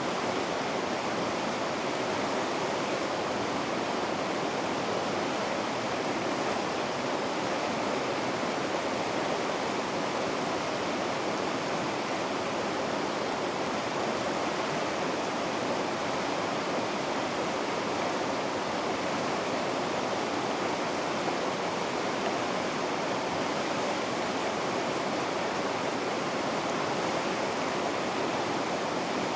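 River rapids rushing in a steady, unbroken roar of white water.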